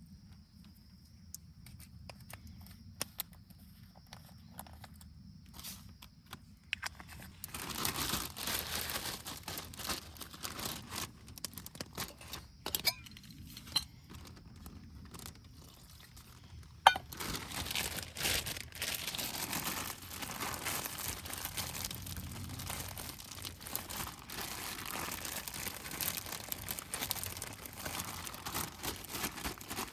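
Close-up crinkling and rustling handling noise with scattered sharp clicks: sparse ticks at first, then dense rustling from about a quarter of the way in, broken by one loud snap about halfway through.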